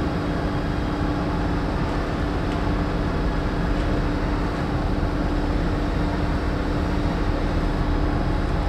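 Power sander running steadily on body filler, with a constant hum over an even hiss.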